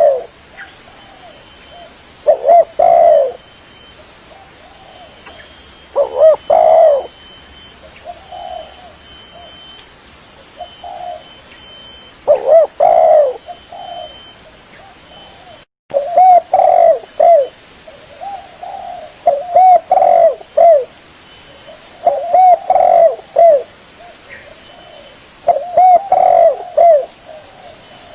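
Spotted dove (tekukur) cooing: loud phrases of several curved, hooting notes repeated every few seconds, broken by a split-second dropout about halfway through. A recorded lure call for attracting spotted doves.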